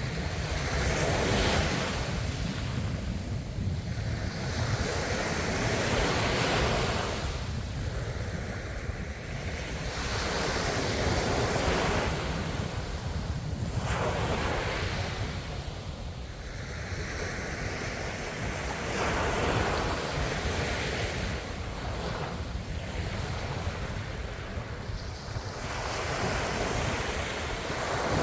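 Ocean waves washing onto the shore, each surge of surf swelling and falling away every two to three seconds, over a steady low rumble.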